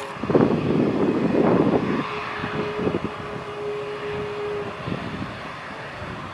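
Airbus A320-214 jet engines (CFM56) rumbling after landing, fading as the aircraft moves away. A steady whine joins in about two seconds in and stops about halfway through.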